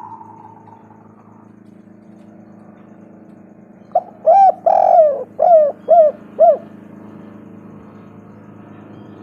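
Spotted dove cooing: a run of about six coos over two and a half seconds, the longest near the middle, starting about four seconds in. A faint steady hum lies underneath.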